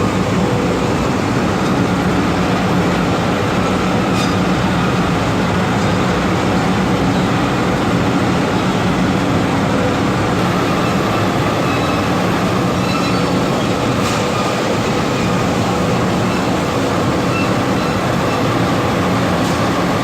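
Industrial machinery of a rice husk furnace and paddy dryer running: a steady, loud noise of fans and machinery with faint steady hums underneath.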